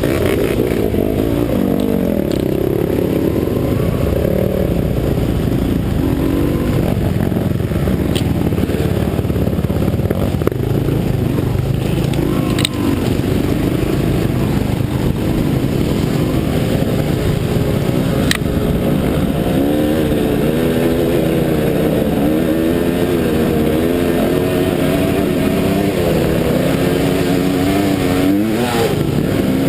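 Off-road dirt bike engine running under load, its pitch rising and falling as the throttle is worked, with a few sharp knocks along the way.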